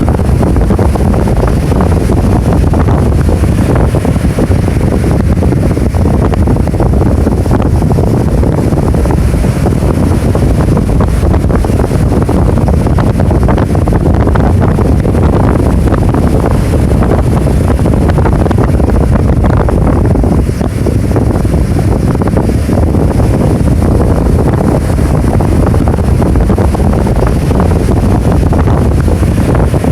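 Rough surf whipped up by an approaching typhoon, mixed with strong wind buffeting the microphone: a loud, steady rush heaviest in the low end, with no break.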